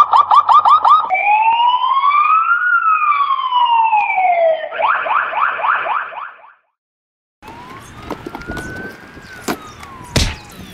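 Electronic police siren switching between a fast yelp and a slow rising-and-falling wail, then back to the fast yelp. It cuts off about six and a half seconds in, leaving a much quieter outdoor background with a few sharp clicks.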